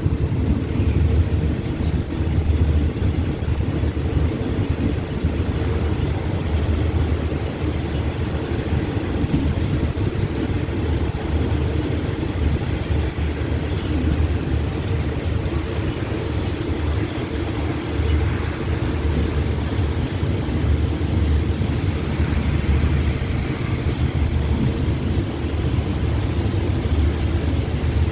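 Express passenger train running along the track, heard from an open carriage window: a steady low rumble that holds level throughout.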